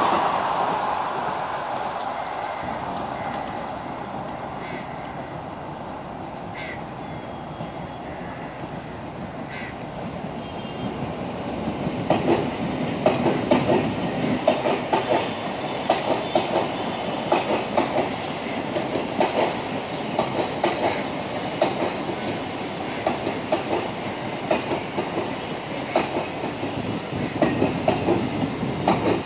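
Mumbai suburban local electric trains running on the tracks below. At the start a passing train's rumble fades away over several seconds. From about twelve seconds in, another train's wheels clatter over the rail joints in a steady rhythm of about two clacks a second.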